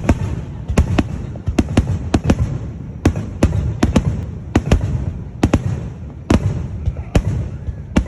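Fireworks bursting overhead in a rapid, irregular volley of sharp bangs, about three a second, over a continuous low rumble of echoing explosions.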